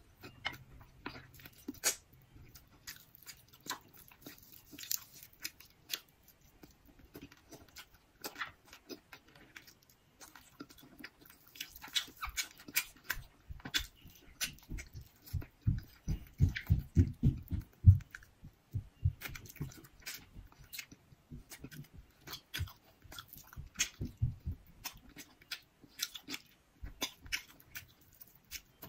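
Close-miked chewing and wet mouth clicks of a person eating salmon picked off the bone by hand. Louder, low chewing thuds come in a run about halfway through.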